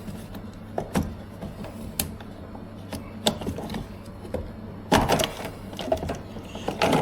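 Plastic clicks, knocks and rattles of a tumble dryer's pump assembly being worked loose and pulled out of its housing by hand, the loudest clatter about five seconds in and again near the end, over a steady low hum.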